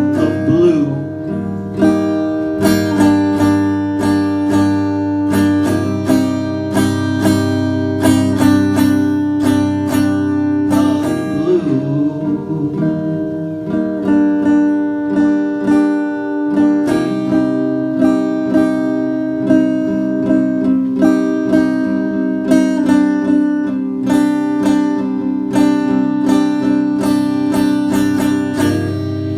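Acoustic guitar strummed in a steady rhythm, an instrumental passage of a live song.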